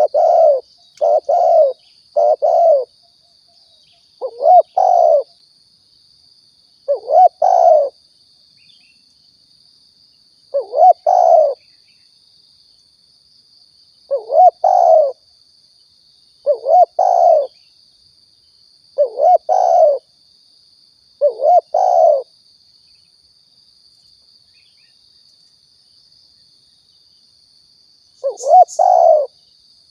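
Spotted dove (tekukur) cooing: phrases of two or three short coos repeated every two to four seconds, going quiet for about six seconds before one last phrase near the end. A faint steady high-pitched tone runs underneath.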